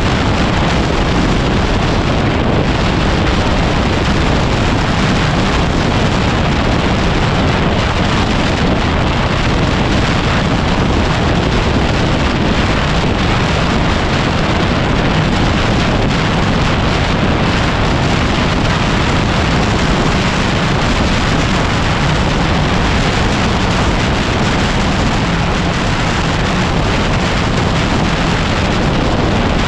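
Heavy, steady wind noise buffeting the microphone of a camera on a moving dirt bike; it drowns out the Yamaha WR250R's engine.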